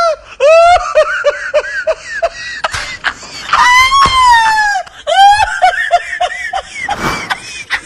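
A person's shrill, high-pitched vocal cries, twice over: a long drawn-out wail breaking into rapid staccato pulses, about five a second, like cackling.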